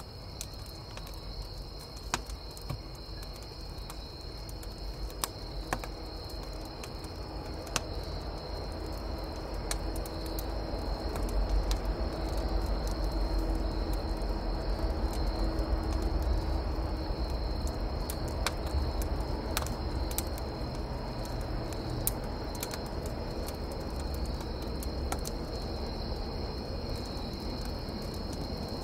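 Distant train passing: a low rumble that swells about a third of the way in, peaks, then slowly eases. Steady cricket chirping and the sharp snaps of a crackling wood campfire continue throughout.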